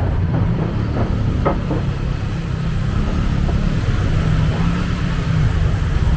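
Motorcycle engine running steadily on the road amid traffic, with a heavy continuous low rumble.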